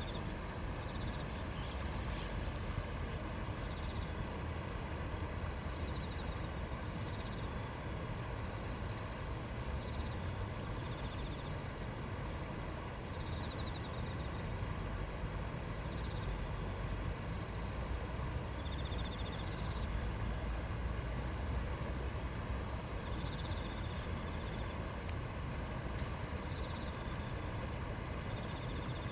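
A river's shallow current babbling over stones in a steady, even rush of flowing water. Short faint high trills come through every few seconds.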